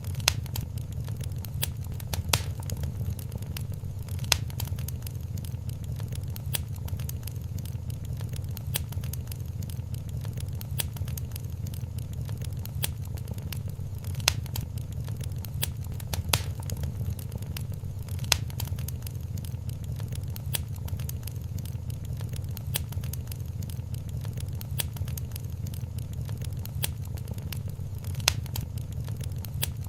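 Wood fire in a fireplace crackling: a steady low rumble of burning with sharp pops and snaps scattered every second or two, a few of them louder.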